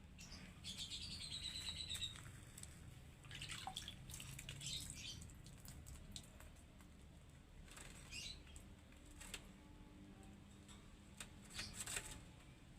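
A small songbird bathing: several short bouts of wing-fluttering and splashing in water, with a brief chirp in the first couple of seconds.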